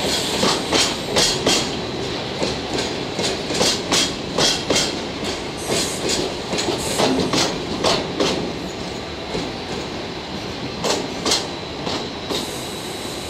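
Chiki flat wagons loaded with long rails rolling past, their wheels clacking over rail joints in quick pairs over a steady rumble and a thin high whine. The clacking stops near the end as the last wagon goes by.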